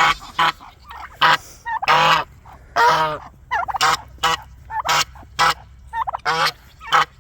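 A mixed flock of farmyard poultry calling, with short harsh calls following one another about twice a second.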